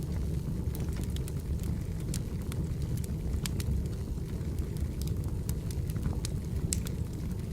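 Wood fire burning: a steady low rumble of flames, with frequent sharp, irregular crackles and pops from the burning firewood.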